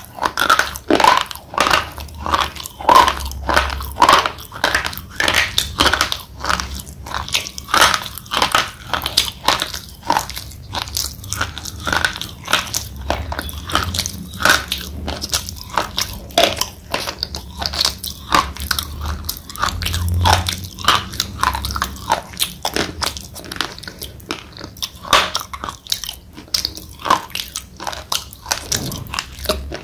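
Thick slate pencil being bitten and chewed: a continuous run of crisp crunches, several a second, as the chalky pieces are ground between the teeth.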